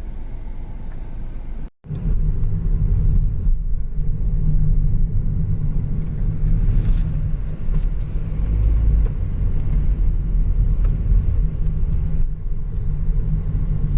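Steady low rumble of road and engine noise inside a moving car's cabin. The sound drops out completely for a moment about two seconds in and comes back louder.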